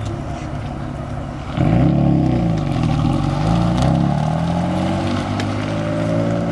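Car engine running, getting louder about one and a half seconds in, its pitch rising and falling, then climbing slowly near the end.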